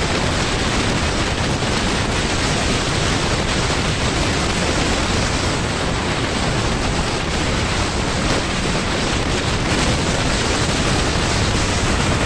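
Steady, loud rushing noise with no distinct events, like wind or travel noise buffeting the microphone.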